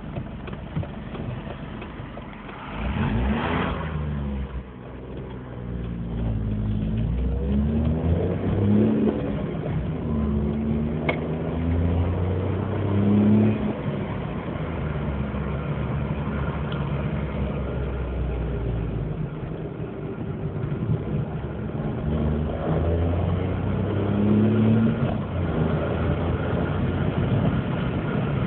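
Opel Corsa's 1.0 12V three-cylinder engine (X10XE) starting about three seconds in, then idling and revved up and down several times. It runs with a loud, growling exhaust note because the exhaust has crumbled and broken.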